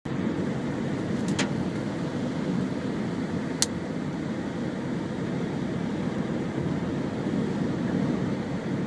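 Steady low rumble of a car on the move, heard from inside, with two short sharp clicks, one about a second in and one a few seconds later.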